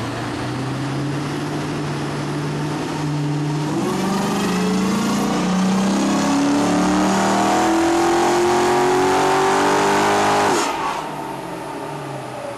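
HEMI V8 on a chassis dynamometer making a wide-open-throttle pull. It runs steadily for a few seconds, then climbs in pitch and loudness for about seven seconds before the throttle is closed abruptly near the end and the engine drops back.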